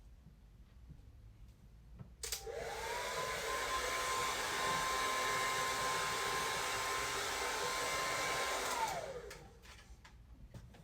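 Hair dryer switched on about two seconds in. Its motor whine climbs to a steady high pitch over a loud rush of air, then it is switched off near the end and the whine winds down.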